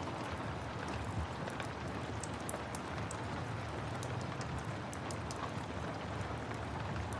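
Steady rain mixed with a crackling fireplace: an even hiss with a scatter of small, sharp pops and ticks.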